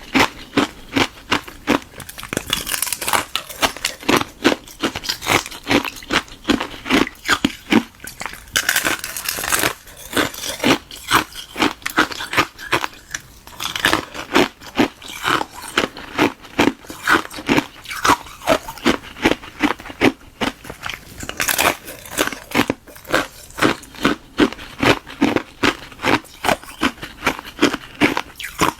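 Hard ice being bitten and chewed close to the microphone: a hollow ice shell frozen in a balloon, packed with frozen milk tea ice. It makes a fast run of brittle crunches, several a second, with a few brief lulls.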